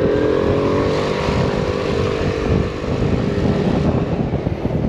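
A small moped engine pulls away, its pitch rising and then holding steady, with wind buffeting the microphone. About four seconds in, the engine note fades under the wind rumble.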